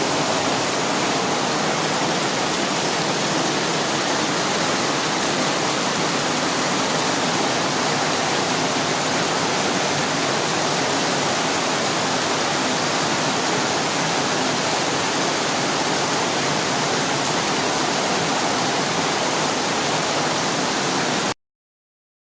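Heavy rain pouring down in a steady, even hiss. It cuts out abruptly near the end.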